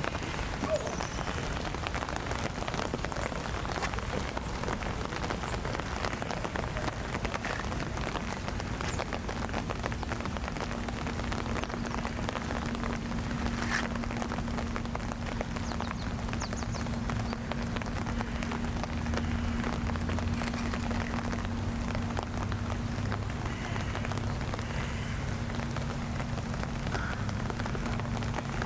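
Steady rain falling, with many small drops pattering close by. A steady low hum joins in about ten seconds in and carries on.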